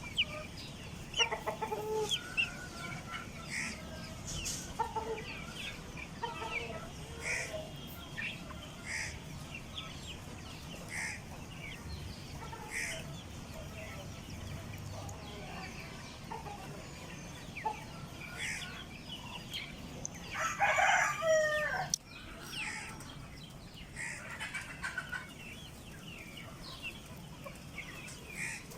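Chickens calling: short clucks and many high, brief peeps repeat throughout, with one loud, longer call of about a second and a half about twenty seconds in, most likely a rooster crowing.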